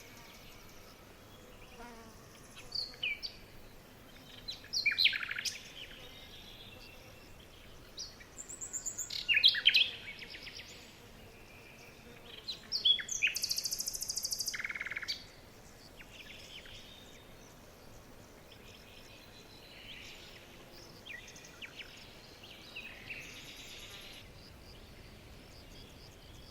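Songbirds chirping and singing in short bursts, with a buzzy high trill a little past the middle. The calls are loudest in the first half and fainter and sparser later.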